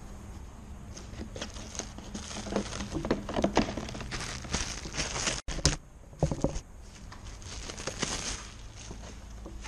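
Hands handling a car's air filter housing and filter element: irregular rustling and crinkling with scattered plastic clicks and knocks.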